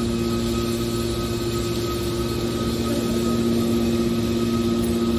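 Hydraulic can baler running, its power unit giving a steady machine hum with a few held tones.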